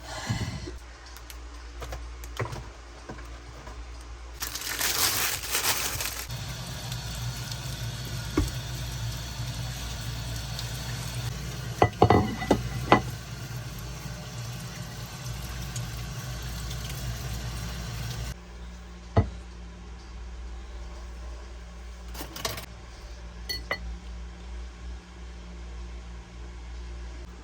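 Kitchen cooking sounds: a few sharp clinks of dishes and utensils over a steady hiss, which cuts off suddenly about two-thirds of the way through.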